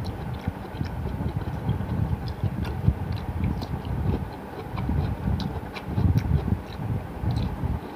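A person chewing banana close to the microphone, with irregular low chewing sounds and many small wet mouth clicks.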